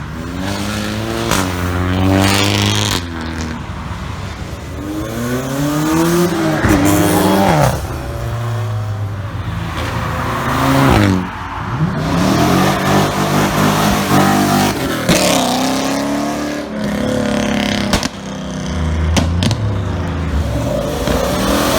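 Several tuned cars accelerating away one after another, engines revving up and falling back as each goes past, with a few sharp cracks in the second half.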